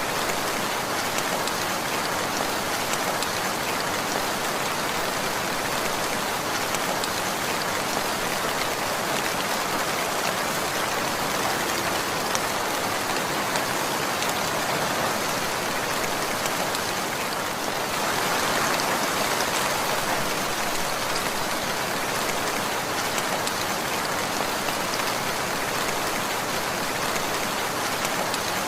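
Steady rainfall, an even hiss of falling drops that swells a little about two-thirds of the way through.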